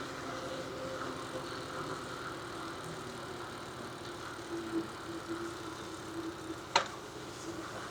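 Ambience of a bicycle rolling along a paved street: steady road and tyre noise with a faint steady hum that comes in about halfway through. A single sharp click near the end.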